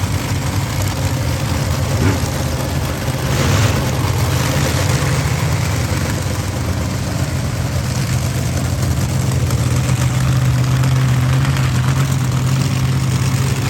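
Monster truck engine running at a steady low idle, with a brief swell in level about four seconds in.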